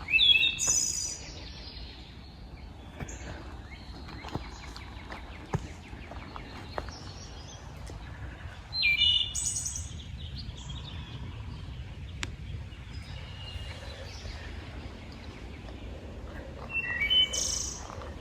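A bird calling in woodland: three loud bursts of high call notes, about eight seconds apart, one at the start, one midway and one near the end. Faint scattered ticks sound between the bursts.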